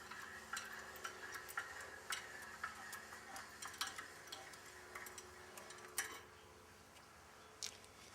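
Faint light metallic clicking, roughly two clicks a second, as the speed handle of a Ringmaster OTR tire-ring tool is cranked to back its threaded push bar off the loader wheel; the clicking stops about six seconds in.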